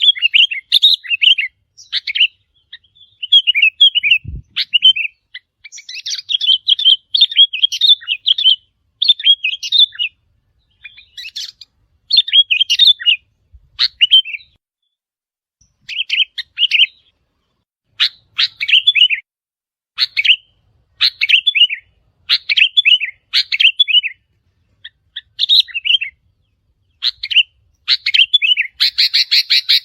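Sooty-headed bulbul calling: short, bubbly phrases of quick chirped notes, repeated over and over with brief pauses, with a denser, harsher chatter near the end.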